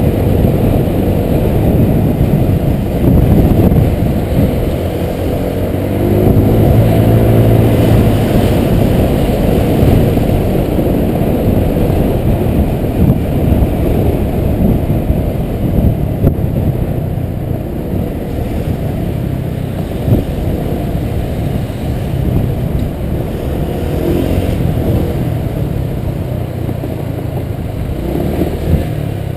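Honda PCX 125 scooter's single-cylinder four-stroke engine running on the move through traffic, speeding up with a rising pitch a little after five seconds in and again near the end, over heavy road noise.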